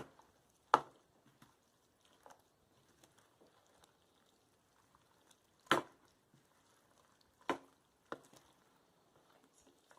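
A spoon knocking against a large mixing bowl while stirring a thick casserole mix of chicken, broccoli, rice and cheese sauce: a handful of separate sharp knocks, the loudest a little before six seconds in, with faint stirring between.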